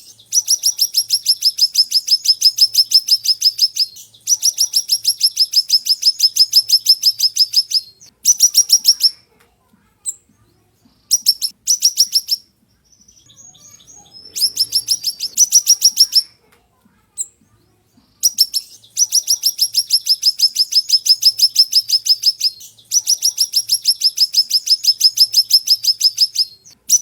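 Siri-siri bird (small minivet) singing: long, rapid trills of sharp, high repeated notes, each trill lasting a few seconds, broken by short pauses and a couple of brief stuttering phrases, with softer chirps in a gap about halfway through.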